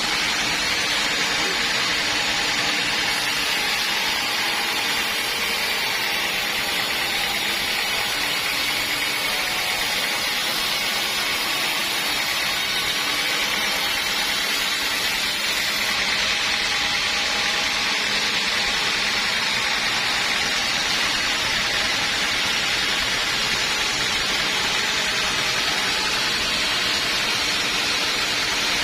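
Sawmill saw cutting through teak wood, a steady, unbroken high-pitched sawing noise.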